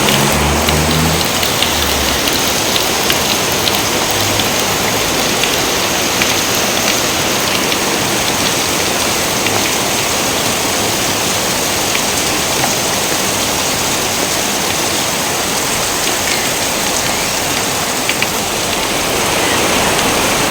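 Steady heavy rain, a dense even hiss with scattered drop ticks. A low rumble of thunder fades in the first couple of seconds and starts again at the very end.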